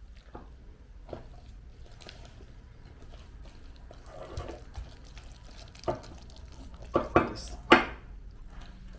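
Kitchen utensils knocking and clinking against a bowl while batter is mixed, with a soft wet stirring sound before a few sharp knocks near the end, the last the loudest.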